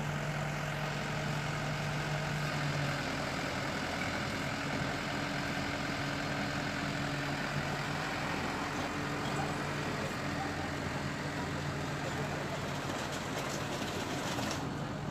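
Truck engine running steadily at idle, a low, even drone.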